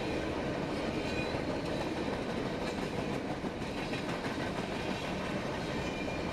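HO-scale model train running along the track: a steady rolling rattle of small wheels on the rails.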